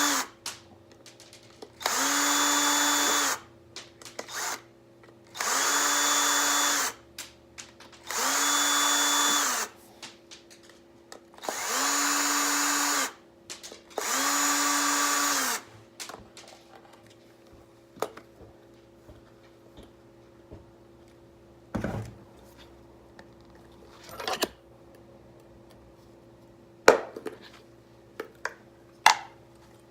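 Electric drill-driver run in short bursts, each spinning up, running steadily for about a second and a half and winding down, about six times in a row as it backs out the screws of a hard drive. After that come scattered light clicks and knocks of parts being handled.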